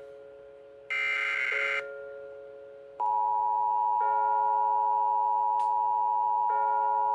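Emergency Alert System tones: a short screechy burst of the SAME digital header data near the start, then about three seconds in the loud, steady two-tone EAS attention signal comes on and holds, announcing an emergency alert.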